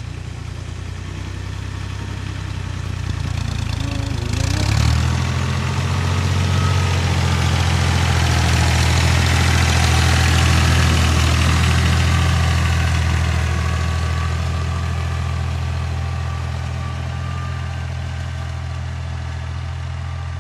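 Tractor engine running steadily under way. It grows louder after about five seconds, peaks near the middle, then slowly eases off.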